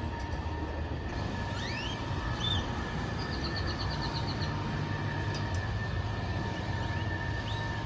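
Outdoor ambience: a steady low mechanical rumble with a faint steady hum, and several short rising bird chirps plus a quick trill about three seconds in.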